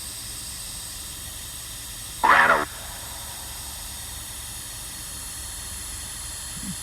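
Steady hiss with a low rumble underneath, and one short vocal sound, a single syllable, about two seconds in.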